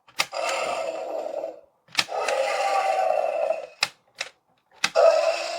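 Mattel Jurassic World Tyrannosaurus Rex toy playing its electronic roar through a small built-in speaker, three roars in a row. Each roar starts with a sharp mechanical click from the toy's moving head and jaw.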